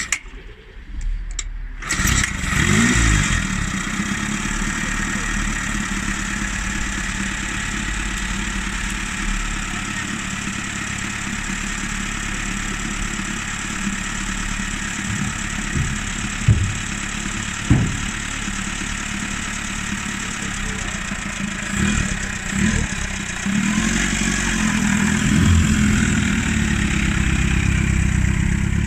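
Nimbus four-cylinder motorcycle engine catching about two seconds in, then running steadily at idle. Two short sharp sounds come in the middle, and it is revved up and down near the end.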